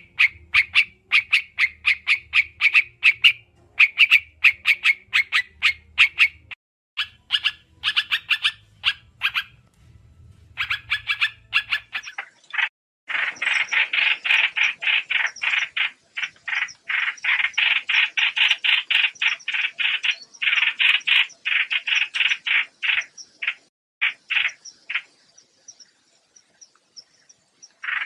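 Recorded trao trảo bird calls played as a trapping lure: rapid trains of short, harsh chattering notes, several a second, in bursts with brief pauses. A faint low hum lies under the first half.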